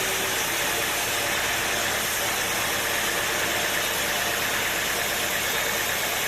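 Sawmill machinery running steadily: an even engine drone with hiss across the highs.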